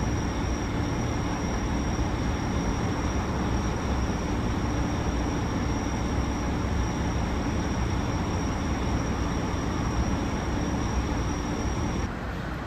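Steady drone of a vehicle in motion: a low engine hum under an even rushing noise, with a thin high whine. The whine and some of the level cut off suddenly near the end.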